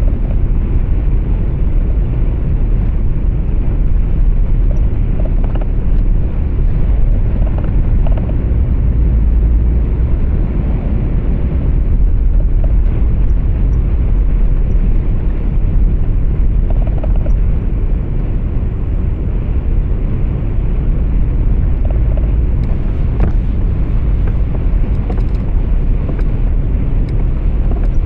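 Steady low rumble of engine and road noise heard from inside a truck's cab on the move.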